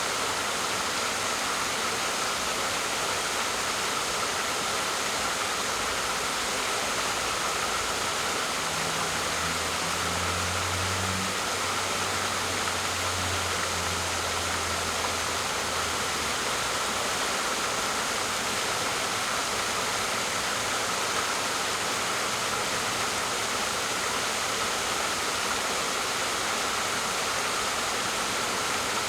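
Waterfall rushing steadily, a continuous even roar of falling water. A faint low hum comes in about nine seconds in and fades out a few seconds later.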